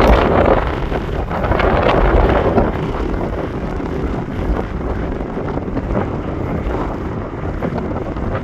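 Strong gusty wind buffeting the microphone, a rough rumbling roar. It is loudest for the first half second, then eases a little and carries on unevenly.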